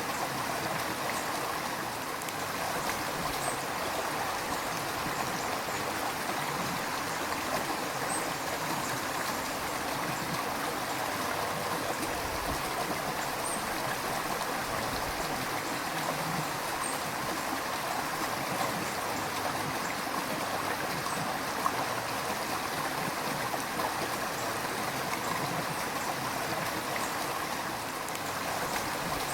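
River water flowing steadily, a continuous rushing with small irregular gurgles and splashes.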